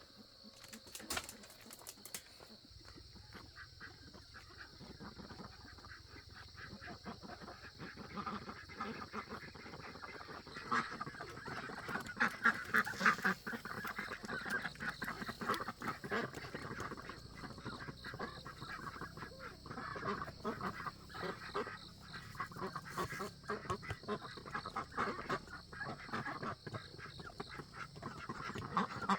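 A flock of ducks quacking, many calls overlapping, growing louder about a quarter of the way in and loudest around the middle.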